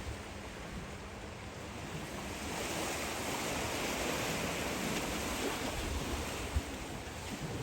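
Waves washing onto a beach, the surf swelling about two seconds in and easing off toward the end.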